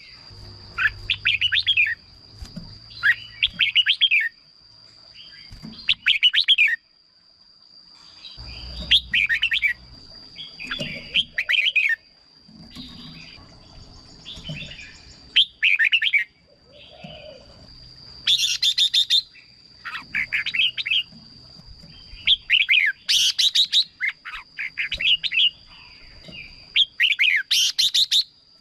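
Red-whiskered bulbul singing: short, bright warbled phrases repeated every second or two, over a steady high-pitched tone.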